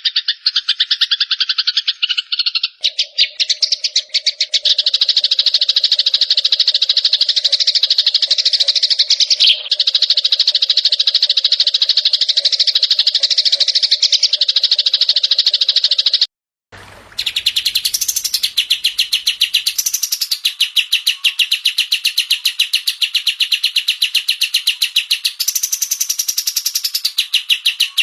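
Recorded songbird song: fast, even, buzzy trills repeated without pause, cut off abruptly about two-thirds of the way through by a brief silence, after which a different, higher trill takes over.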